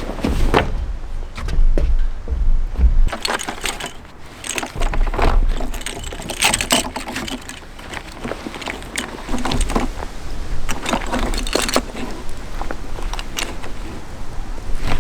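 Gear being handled: a busy run of small knocks, clinks and rustling, with low rumbles now and then.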